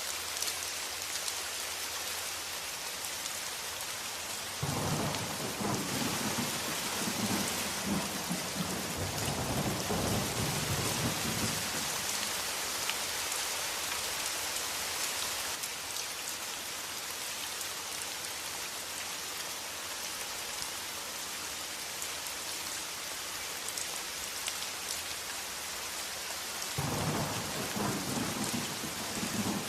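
Steady heavy rain hissing, with a long low roll of thunder rumbling for several seconds from about five seconds in, and a second roll starting near the end.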